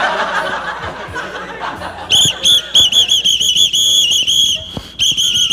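A pea whistle blown in a run of short, warbling toots, about three a second, starting about two seconds in, with a brief pause near the end.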